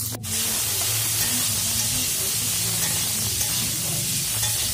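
Cauliflower florets and green peas sizzling in hot oil in a kadai, a steady frying hiss that breaks off for a moment just after the start.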